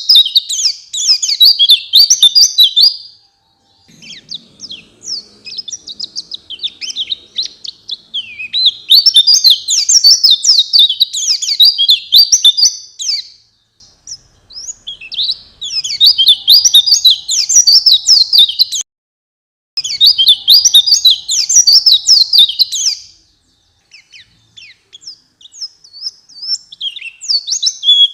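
White-eye (pleci) singing in bouts of rapid, high twittering chirps. Each bout lasts a few seconds and is followed by a short pause, and a few bouts are softer.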